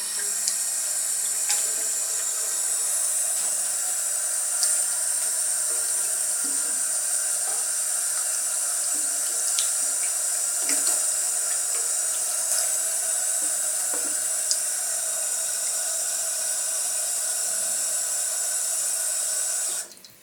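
Water running steadily from a washbasin tap into the sink, with a few faint ticks over the stream; it stops abruptly near the end.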